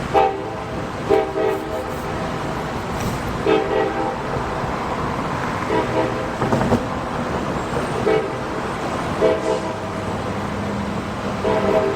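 Diesel locomotive's air horn sounding a series of short blasts, several chord tones together, over the steady rumble of a passing train.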